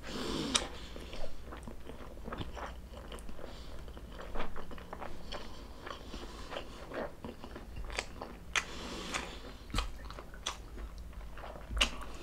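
Close-up sound of a person chewing and biting stuffed squid adobo: irregular wet clicks, smacks and small crunches, with a few louder bites scattered through.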